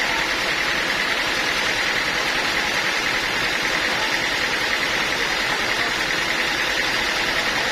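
Sawmill machinery running steadily: a constant mechanical drone with a bright, even hiss-like band on top, unchanging throughout.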